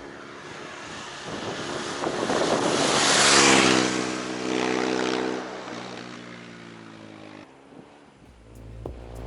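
A motor vehicle passes by: engine and rushing noise swell to a peak about three and a half seconds in, then fade as the engine pitch drops slightly. It cuts off abruptly about seven and a half seconds in.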